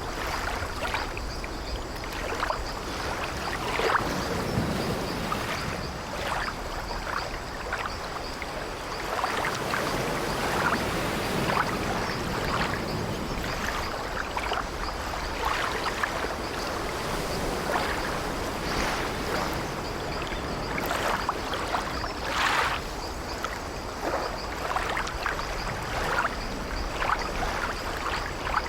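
Ambience of sea water washing around an old wooden ship, with frequent short creaks of its timbers throughout.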